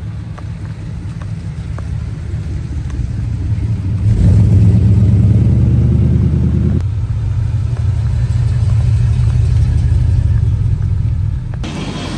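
A car engine's deep rumble. It grows louder, jumps up about four seconds in, holds loud and steady, then eases near the end.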